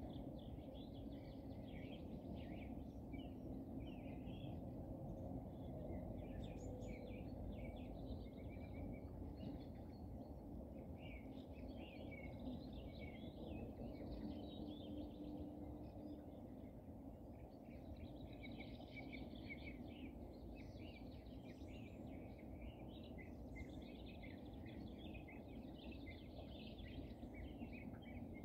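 Small songbirds chirping and trilling in many short, overlapping phrases, over a steady low background noise of open countryside.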